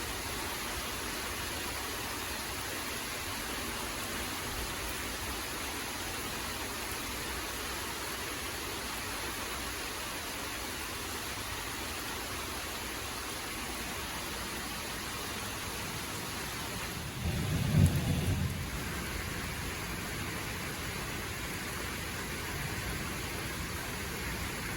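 Steady evening rain falling as an even hiss, with a brief low rumble about two-thirds of the way through.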